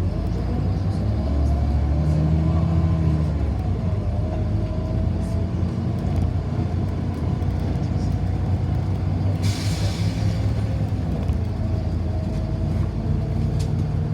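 City bus running in traffic, heard from inside: a steady low rumble with a drive whine that rises and falls in pitch as it speeds up and slows. About nine and a half seconds in, a short hiss of air is released.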